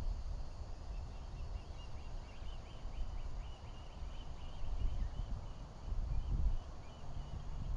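A bird calling a long rapid series of short high notes, about four a second, over steady wind rumble on an outdoor microphone.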